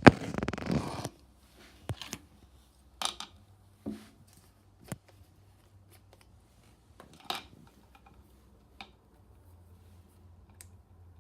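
Slime-making supplies handled on a tabletop: a loud rattling, crinkling burst in the first second, then a series of separate clicks and taps.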